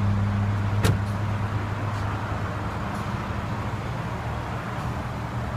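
Power tailgate of a Mercedes-Benz ML350 closing under its motor with a low hum, then latching with a sharp click about a second in. After that there is only a steady background hiss.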